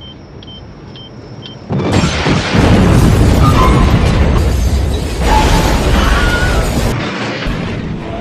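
Electronic beeps repeating about twice a second, then about two seconds in a sudden loud boom that carries on as a heavy rumbling blast for about five seconds before easing off: a film explosion sound effect.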